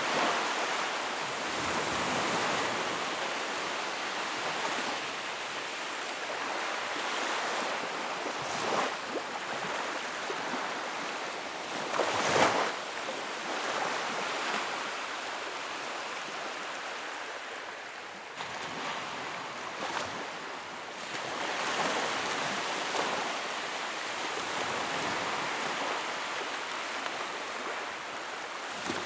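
Sea waves washing ashore in a steady wash of surf that swells and eases every few seconds, with one sharper, louder splash about twelve seconds in.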